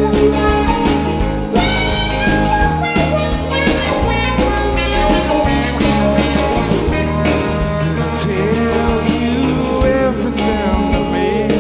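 Live rock band playing an instrumental passage between verses: drum kit keeping the beat under sustained guitar and bass, with some bending guitar notes.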